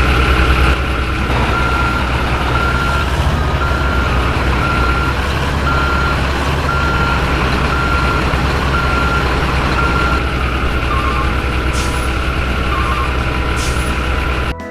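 Diesel truck engine running steadily with a reversing beeper sounding about once a second, the beeping stopping about ten seconds in.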